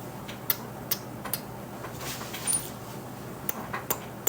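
A few light, irregularly spaced clicks and taps over a faint steady background, like small handling noises.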